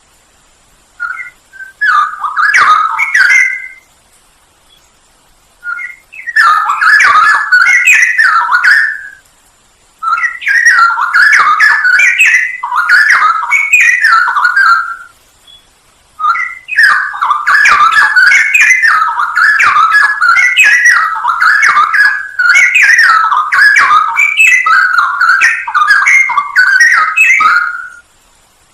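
Straw-headed bulbul (cucak rowo) singing loud, quick warbling phrases in four bouts separated by short pauses, the last bout running about eleven seconds.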